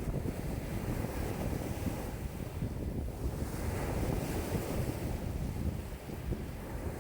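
Choppy lake waves washing and slapping ashore in a strong wind, with wind buffeting the microphone as a low rumble; a brighter wash of water swells about halfway through.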